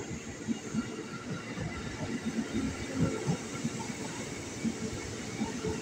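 Electric commuter train running along the track: a steady rumble with irregular clatter from the wheels over the rails.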